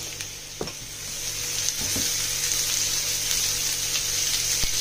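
Tomatoes and green chillies sizzling in hot oil with fried onions in a frying pan, the sizzle growing louder about a second in. A spatula stirs and knocks against the pan a few times.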